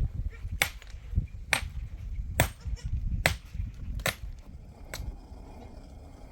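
A hand tool striking something hard in a steady rhythm: six sharp blows a little under a second apart, stopping about five seconds in.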